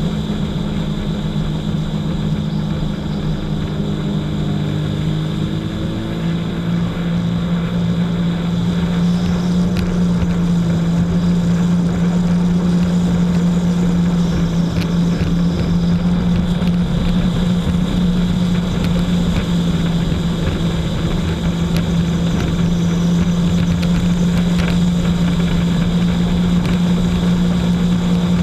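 Jet ski engine running at a steady speed with a constant drone; its note shifts slightly about six seconds in and it grows a little louder soon after.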